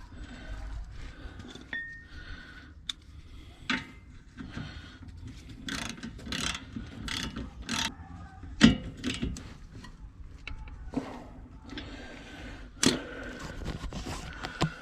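Ratchet wrench clicking in irregular runs as nuts are tightened, with the odd sharp metal knock.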